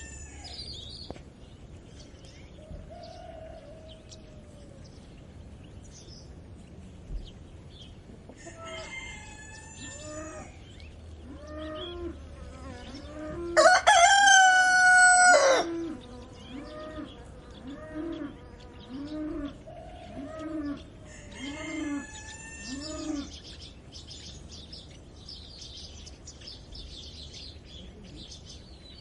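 Roosters crowing: several fainter crows and one loud, close crow lasting about two seconds about halfway through. Hens cluck in a steady run of about one cluck a second after it, and small birds chirp near the end.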